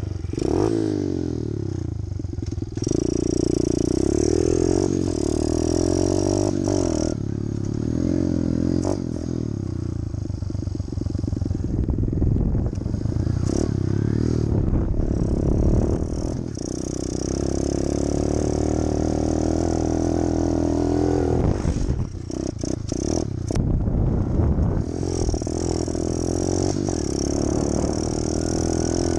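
Pit bike engine with a Pro Circuit aftermarket exhaust, revving up and down repeatedly as the bike is ridden over small dirt jumps, with a few short rattles near the middle.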